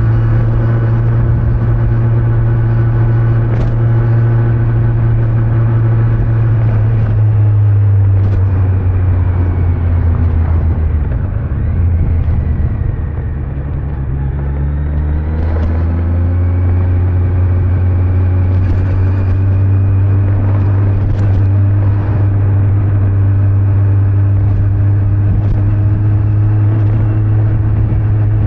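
Kawasaki Z900's inline-four engine with stock exhaust, running steadily while under way. About ten seconds in the engine note falls as the bike slows, then picks up again a few seconds later and settles back into a steady cruise.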